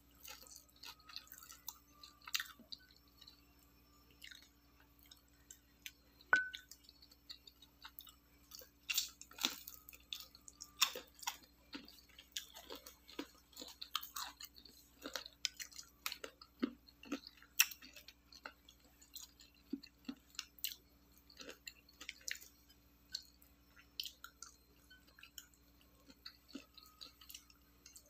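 A person chewing and crunching food close to the microphone, in irregular crunchy bites and mouth noises. One sharper click with a short ring stands out about six seconds in, over a low steady hum.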